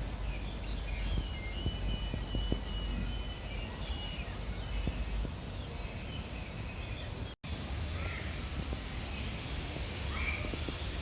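Birds calling in park trees: thin, high chirps and whistles through the first half and a short call near the end, over a steady low rumble of background noise.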